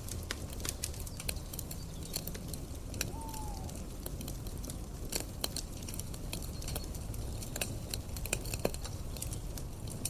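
Campfire crackling, with irregular sharp pops over a steady low rumble of the burning fire. A short falling whistle-like call sounds about three seconds in.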